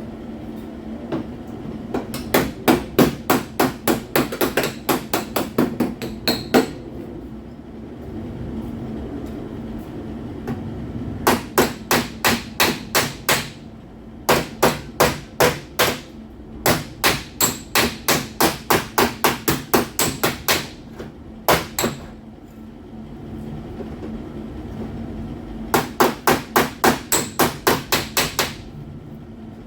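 Rapid hammer blows on car-body sheet metal, about six a second, in several runs of a few seconds each with short pauses between them, over a steady hum.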